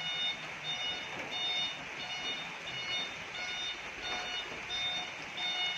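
Dump truck's reversing alarm beeping steadily, about two beeps a second, over a steady hiss of rain.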